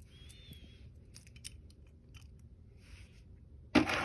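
Toy trains being handled: faint scattered clicks and rustles, with a louder knock near the end.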